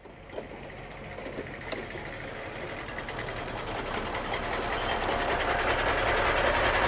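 Toy garbage truck's motor running with a rattling whir, growing steadily louder.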